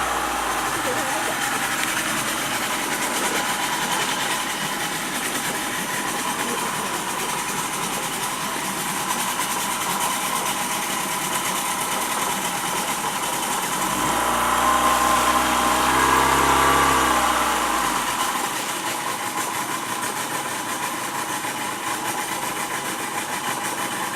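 A boat's engine running steadily, growing louder for a few seconds about two thirds of the way through before settling back.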